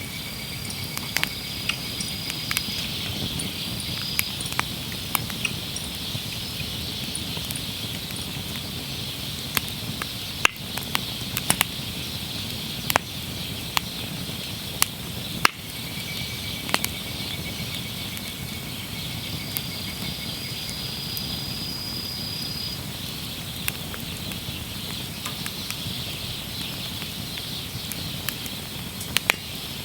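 Wood campfire crackling, with irregular sharp pops, several of them loud between about ten and sixteen seconds in, over a steady hiss.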